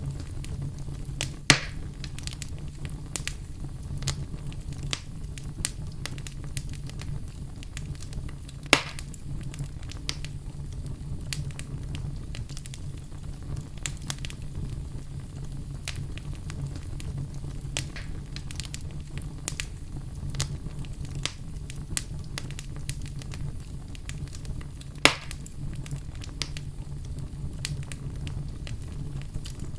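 Wood fire burning in a fireplace: a steady low rumble of flames with constant small crackles and three louder sharp pops, at about a second and a half, near nine seconds and near twenty-five seconds.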